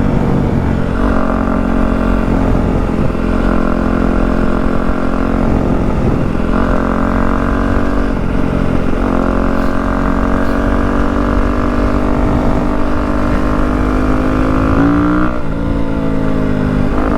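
Yamaha WR250F single-cylinder four-stroke dirt bike engine running under way through a YZ slip-on exhaust. The note holds steady for stretches and drops briefly about five times, at shifts or when the throttle is rolled off.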